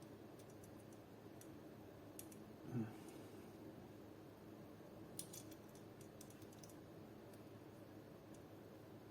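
Faint, scattered small clicks of a hex key working the screws that hold an airsoft AK's outer barrel to its receiver, with a brief low voice sound about three seconds in.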